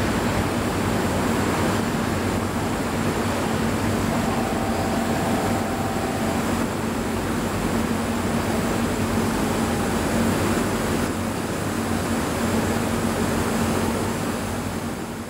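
Container freight train hauled by an EF81 electric locomotive running away along the track: a steady rushing rumble of wheels on rails with a constant low hum. About four seconds in, a faint high double tone sounds for a couple of seconds.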